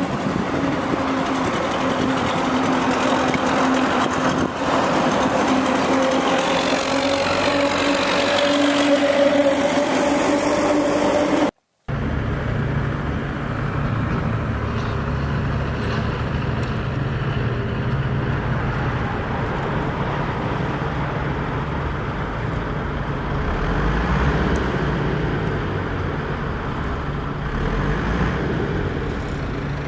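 Homemade mini tractor's motor running steadily with a humming whine while pulling an offset disc harrow through soil. Its pitch creeps up slightly before a sudden cut, after which it runs lower and rougher.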